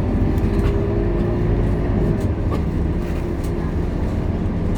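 Scania K230UB city bus under way, heard from inside the cabin: steady engine and drivetrain rumble with a continuous whine, and a few faint rattles.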